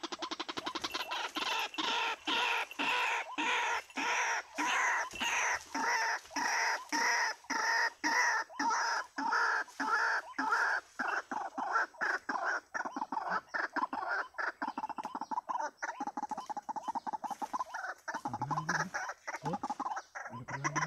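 White-breasted waterhen (ruak-ruak) calling: a long, loud run of harsh repeated croaking notes at about three a second, turning faster and more ragged about halfway through.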